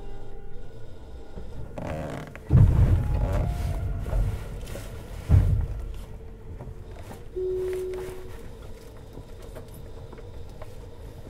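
Tobu 50090 series electric commuter train running, heard from near the car's underfloor. It has a steady rumble, with two sudden loud surges of rushing noise about two and a half and five seconds in, and a short steady tone a little after the middle.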